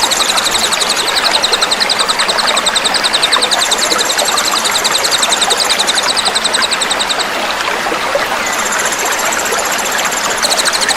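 Small songbirds giving rapid, dense, high trills, several layered at different pitches: the coarse, dense fill-in song used to tutor cage birds. Steady running water hisses beneath. The main trill breaks off a little past halfway, a higher, thinner trill comes in for about two seconds, and the lower trill returns near the end.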